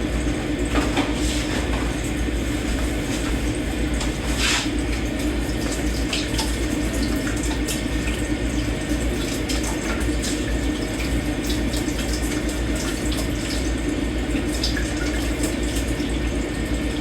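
Kitchen tap running steadily into a sink during hand dishwashing, with scattered light clinks of dishes and cutlery.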